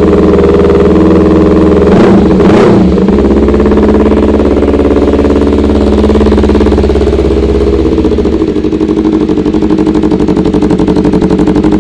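A 250cc sport motorcycle engine idling through its exhaust, given one quick throttle blip about two seconds in that rises and falls back to a steady idle.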